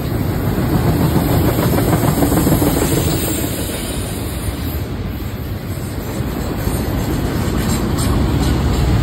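Freight train autorack cars rolling past, steel wheels rumbling and clattering on the rails in a steady din. Over the last couple of seconds the low rumble swells as a diesel locomotive approaches.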